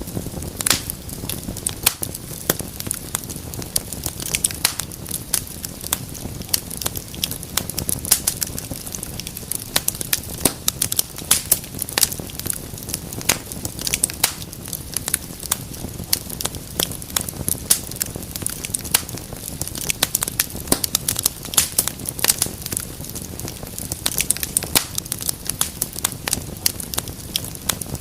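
Wood fire burning in a fireplace, crackling and popping irregularly over a low steady rumble of the flames.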